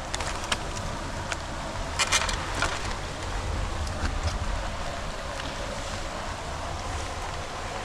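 Steady rushing of floodwater at a storm-drain outflow, with wind buffeting the microphone in a low rumble. A few sharp clicks about two seconds in.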